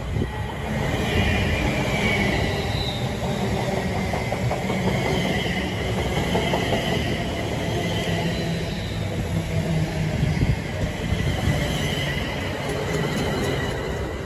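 A Class 350 Desiro electric multiple unit passing close along the platform: a steady rumble of wheels on rail, with a high wavering squeal and whine over it that comes and goes.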